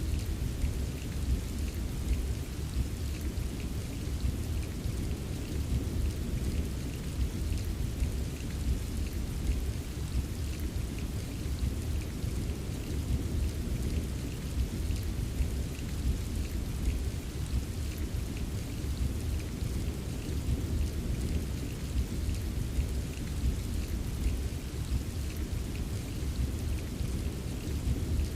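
Steady rain ambience with a deep, continuous low rumble beneath it and faint patter of drops on top, unchanging throughout.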